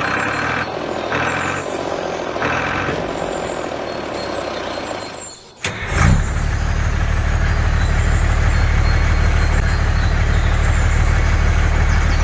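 A heavy vehicle engine running, with three evenly spaced beeps in the first few seconds. After a short break and a click it changes to a loud, steady, low engine drone.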